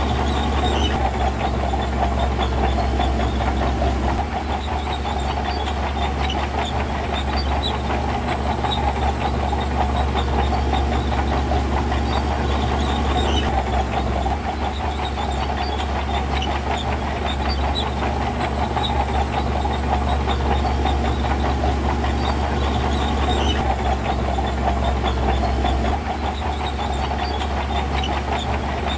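Heavy earthmoving machine's diesel engine running steadily under load, a deep rumble with light scattered ticks over it.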